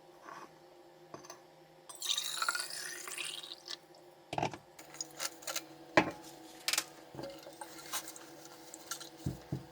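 Water running or pouring for about two seconds, with a rising pitch as a container fills, then a series of sharp clinks and knocks, the loudest about six seconds in, over a faint steady appliance hum.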